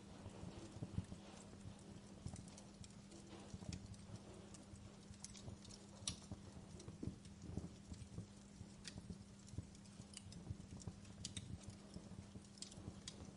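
Wood fire burning in a fireplace, crackling with frequent irregular sharp pops and snaps over a soft steady rush, with a steady low hum underneath.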